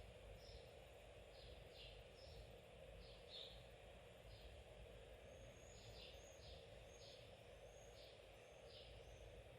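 Faint bird chirping: short high chirps repeating roughly twice a second, with a run of quicker, higher notes in the second half, over a low steady hum.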